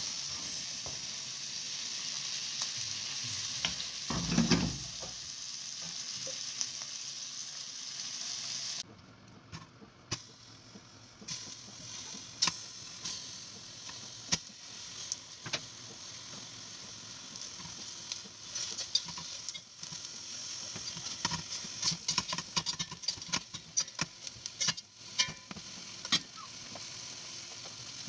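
Food frying: a steady sizzle of beef, onions and green peppers being stirred in a pan with a wooden spatula, with a low thump about four seconds in. After about nine seconds it drops to a quieter sizzle of beef chunks searing in a steel pot, with many sharp crackling pops, busiest near the end.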